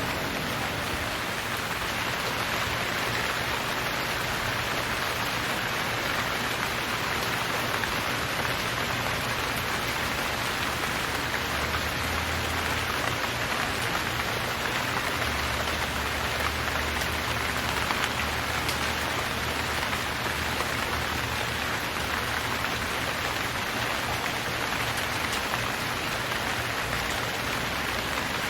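Steady rain falling on surfaces, an even continuous hiss of drops without breaks.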